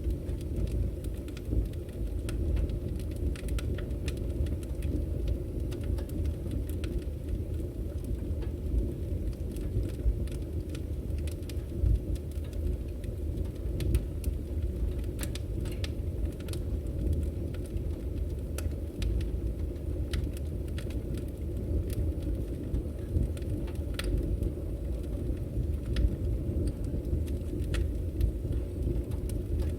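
Firewood burning: a steady low rumble of the fire with frequent sharp crackles and pops from the burning wood, a few of them louder than the rest.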